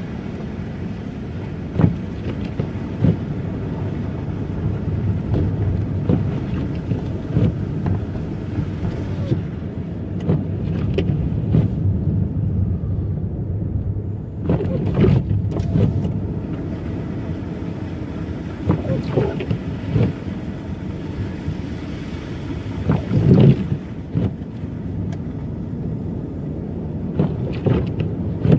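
A car driving on snow-covered streets: a steady low rumble of engine and road noise, with a few short knocks and bumps along the way.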